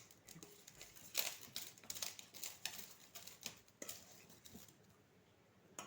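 A kitchen utensil clicking and scraping irregularly against a bowl while a wet mixture is being worked together. The clicks are busiest in the first half and thin out towards the end.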